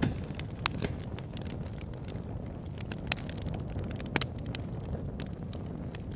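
Wood fire burning in a fireplace: a steady low rumble of the flames with about half a dozen sharp crackles and pops at irregular moments.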